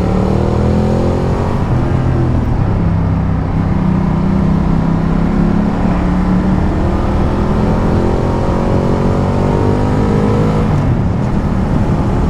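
Ducati Multistrada 1200's L-twin engine running under way, its pitch climbing briefly near the start and again in a long rise through the middle before dropping about eleven seconds in, over a steady rush of wind and road noise.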